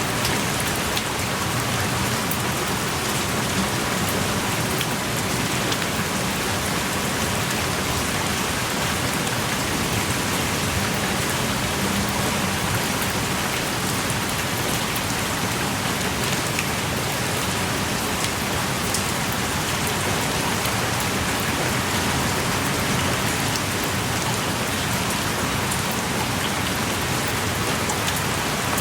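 Heavy rain pouring steadily, a dense even hiss with scattered individual drops ticking on surfaces close by.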